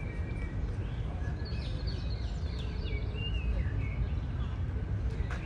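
Small birds singing: a burst of quick chirps and short whistles about a second and a half in, with a few fainter calls elsewhere, over a steady low rumble of background noise.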